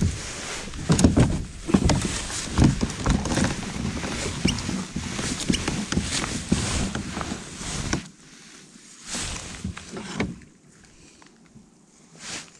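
Busy knocking, rustling and clicking handling noise on a fishing kayak, loud for about eight seconds and then dropping to a few scattered knocks.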